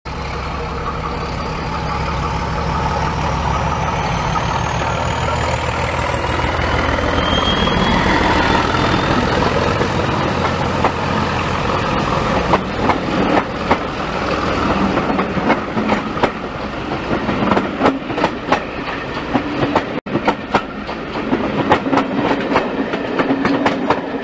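Diesel train gathering speed: a steady low engine rumble with a rising whine over the first half, then wheels clattering over rail joints in a quick irregular run of clicks.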